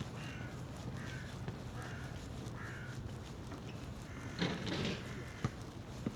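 A crow cawing four times in an even series, the calls a little under a second apart. A louder, rougher sound about half a second long follows a little after four seconds in.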